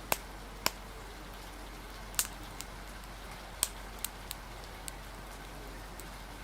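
Steady rain hiss with a wood fire crackling over it: about seven sharp, irregular pops, the loudest near the start and in the middle.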